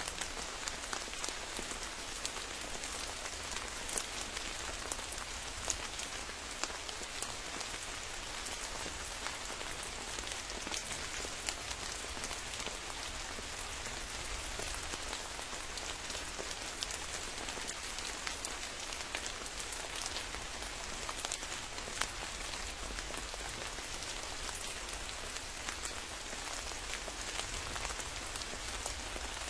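Steady rain falling, with many sharp individual drops ticking close by over a low, steady rumble.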